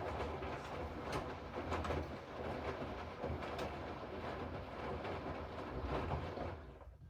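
Hoover inverter washing machine running mid-cycle, a steady rumble with scattered clicks from the drum, dying away near the end as the machine stops.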